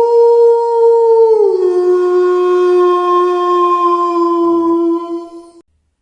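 Wolf howling: one long howl held at a steady pitch, dropping to a lower held note about a second and a half in, then cutting off near the end.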